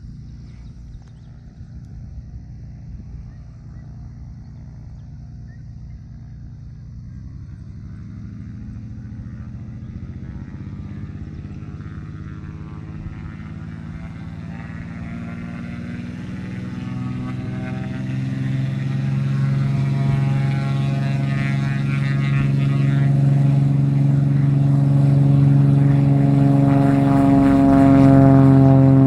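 Cessna T210 Turbo Centurion's turbocharged six-cylinder engine and propeller droning as the plane comes closer, growing steadily louder and loudest near the end.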